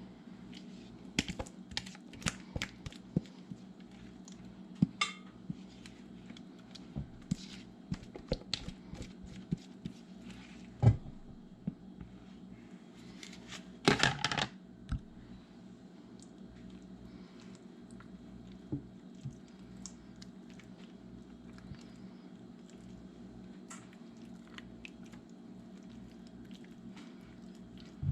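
A spoon scraping and clicking against a baking dish while a thick soup and sour cream mixture is spread over chicken: scattered sharp taps, with a short busier patch of clatter about halfway through, over a steady low hum.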